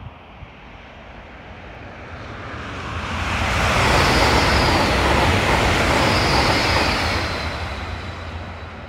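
Italo high-speed electric train passing at speed: a rushing noise that builds over a few seconds, holds loud for about four seconds, then fades as the train draws away, with a thin high whine twice near its loudest.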